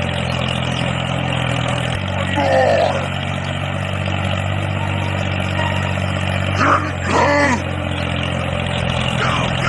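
Mini tractor's engine running steadily at an even low pitch, with a few short voice-like cries over it.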